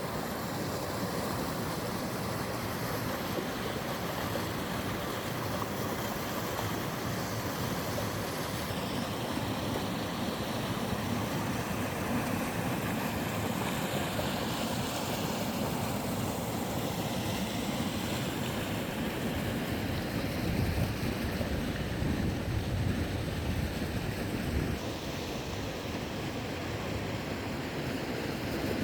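Mountain stream water rushing and splashing over rocks as a steady, full noise. The sound shifts slightly about nine seconds in and drops a little in level near the end.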